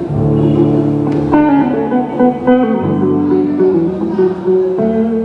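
A live band playing through a PA during a sound check: guitar with sustained keyboard chords and a bass line, changing chords every second or so.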